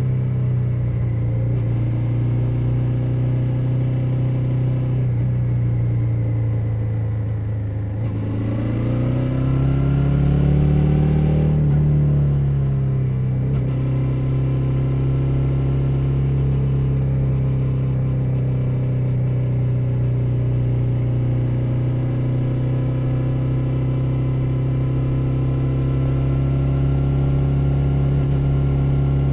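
2021 Suzuki SV 650's 645 cc V-twin engine running steadily under way. About eight seconds in the revs climb for a few seconds, then drop back and settle into a steady cruise.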